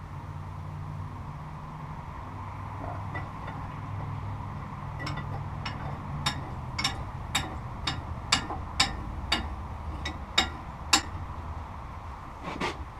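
Sharp metal clicks in an even run of about two a second, from hand tools working a thread tap in a cast iron exhaust manifold, over a low steady hum.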